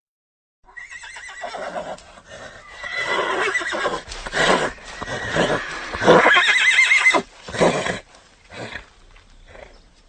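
Horse whinnying: after a moment of silence, a long neigh with a quavering, wavering pitch builds and is loudest about six to seven seconds in, followed by a few shorter, separate sounds near the end.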